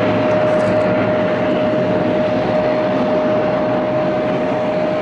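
Turboprop airliner taking off: a steady rush of engine and propeller noise with a steady high tone running through it, easing slightly near the end.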